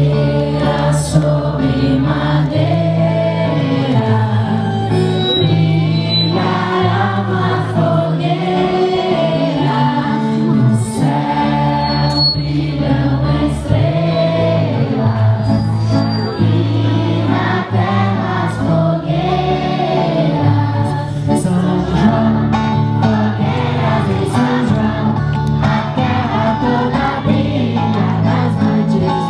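A group of voices singing a song together over instrumental accompaniment with sustained low bass notes.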